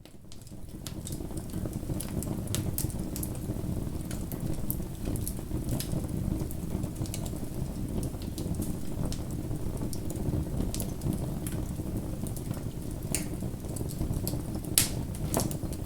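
Bonfire burning: a steady low rumble of flames with scattered sharp crackles and pops of burning wood, fading in at the start, with a couple of louder pops near the end.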